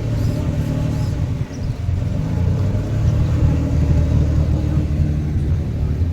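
A car engine running with a loud, deep rumble, dipping briefly about a second and a half in and then carrying on.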